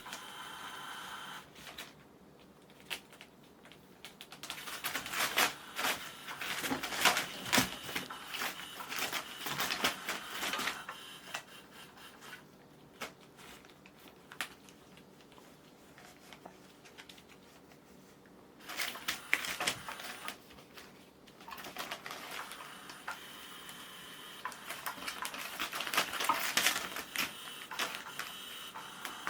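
Kittens playing: bursts of rapid clattering and scratching from about 4 to 11 seconds in, again briefly around 19 seconds, and from about 25 seconds, with quieter stretches between.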